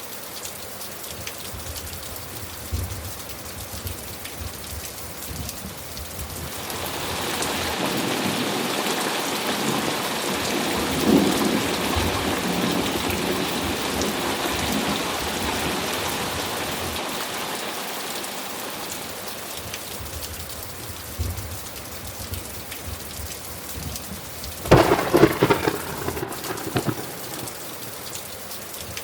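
Thunderstorm: steady rain falling, with a long rolling thunder rumble that builds about a quarter of the way in and slowly fades, and a sharp, loud crack of thunder near the end.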